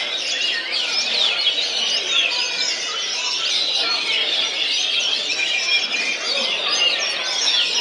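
Many songbirds singing at once, a dense unbroken chatter of quick overlapping chirps and trills.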